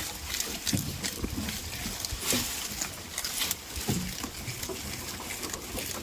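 Goats making short low sounds among scattered clicks and knocks.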